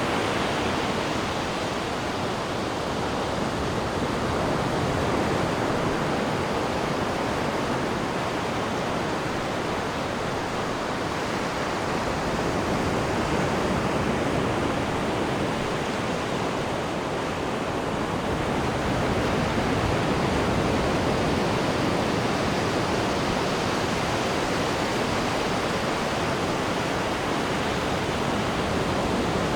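Steady rushing of the cruise ship's wake churning behind the stern, a continuous wash of foaming water that swells and eases slowly, with some wind.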